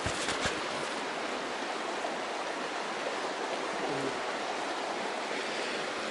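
A shallow, fast-flowing mountain stream running over gravel and stones: a steady rushing of water.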